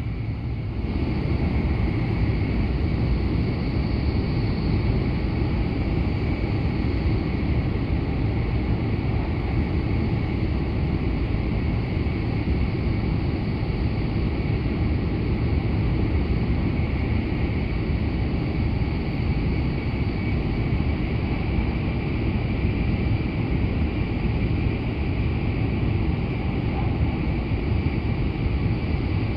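Running noise of an N700S Shinkansen at speed, heard from inside the passenger cabin: a steady low rumble with a thin high whine on top. About a second in it grows louder and stays that way as the train enters a tunnel.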